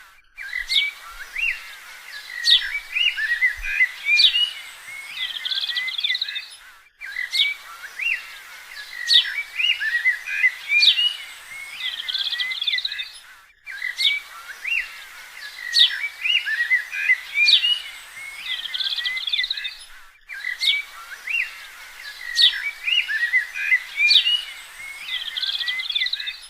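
Birds calling and chirping: sharp rising whistles, buzzy notes and twittering. The same stretch of about seven seconds repeats four times with a short break between, like a looped recording.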